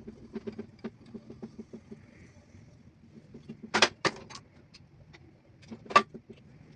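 A run of light, irregular clicks and taps, with sharp knocks twice, a close double about four seconds in and a single one near six seconds.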